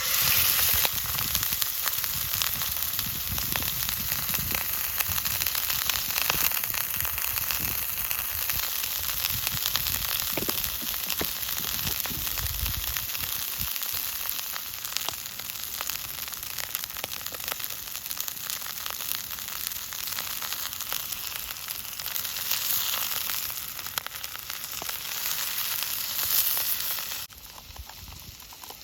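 Food sizzling and spattering in a hot pan over a campfire, a dense, steady crackle that begins suddenly and drops off abruptly near the end.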